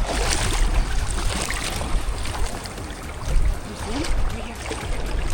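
Ocean surf washing in the shallows, with wind rumbling on the microphone.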